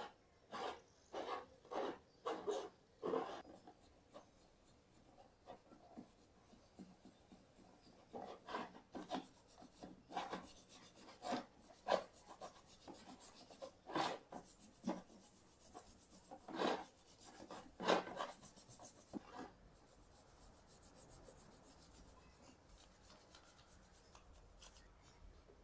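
Repeated hand rubbing strokes on a bicycle part, about two a second at first, then slower and irregular, fading to faint scraping near the end.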